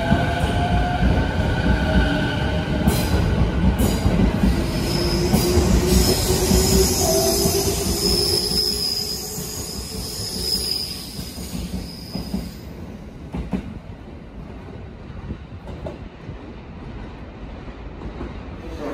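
JR East 209 series electric commuter train pulling out of the platform: wheels rumbling over the rails with a few sharp clicks, a steady high wheel squeal and motor whine. The sound falls away about two-thirds of the way through as the last car clears.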